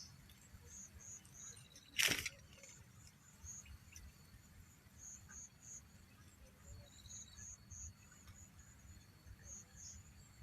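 High-pitched insect chirping, short pulses repeating about two to three times a second, over a faint low rumble. About two seconds in, one brief loud noisy burst stands out.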